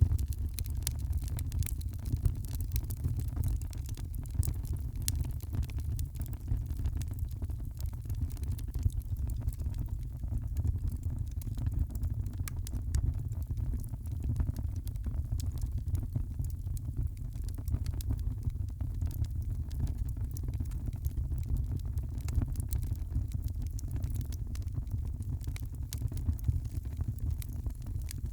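Wood fire crackling in a fireplace: many small, irregular pops over a steady low rumble.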